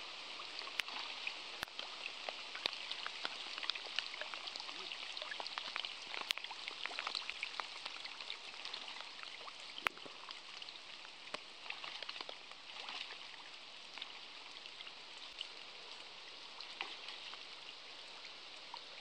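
Rain falling on the surface of a slow river: a steady hiss of many small drops with scattered sharper ticks. It eases a little about halfway through.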